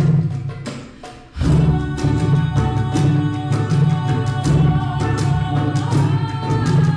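An ensemble playing a song with ukulele and cajon, with a steady beat and singing. The music drops away briefly about a second in, then comes back in full.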